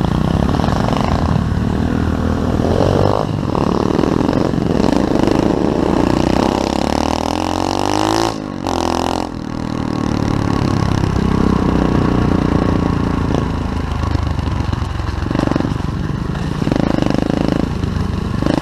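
SSR 125cc pit bike engine revving as the bike is ridden, its pitch climbing and then cutting off sharply about eight seconds in. The engine picks back up a second later and runs on at varying throttle.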